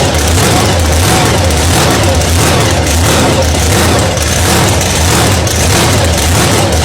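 Car engine running loudly and steadily, with a deep low hum.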